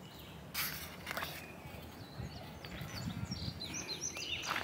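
A songbird singing a quick series of short, sweeping chirps that grows busier near the end, over open-air ambience. Two brief rustling noises come about half a second and a second in.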